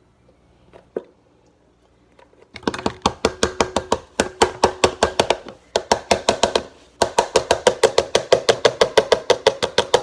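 A spoon beating fast inside a hard cup or bowl, clinking about eight times a second with a slight ringing, in two long runs with a short pause between them.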